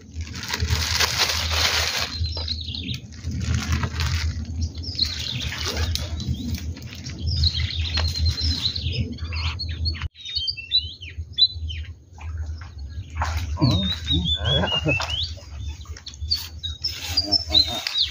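Wild birds chirping in short, high calls, with a run of falling chirps about two-thirds of the way through. Underneath is a steady low rumble with gusts of hissing noise, typical of wind on the microphone.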